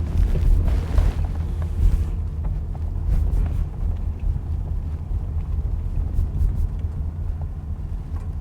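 Pickup truck engine running, heard as a steady low rumble from inside the cab as the truck moves slowly near the river.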